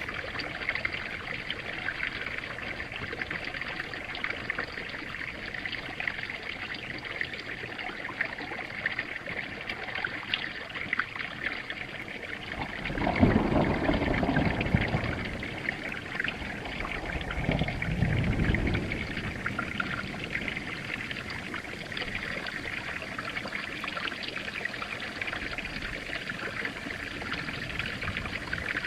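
Steady rain falling, with two low rumbles of thunder about halfway through, a few seconds apart.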